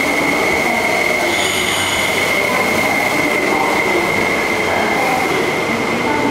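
MTR East Rail Line electric multiple unit running along a curved platform, its wheels giving a steady high squeal over the rumble of the cars.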